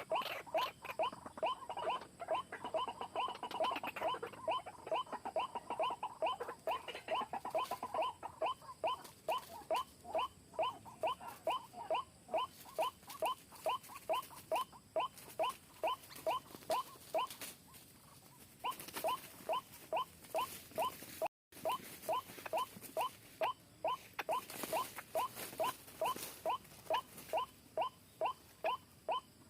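White-breasted waterhen calling: a long, monotonous run of short, sharp notes repeated about three times a second, breaking off briefly about two-thirds of the way through.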